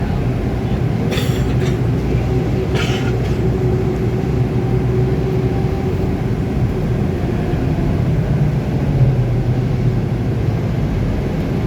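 Scania K280UB4 city bus heard from inside, its engine running with a steady low rumble of road noise. Two short hisses come about a second and about three seconds in.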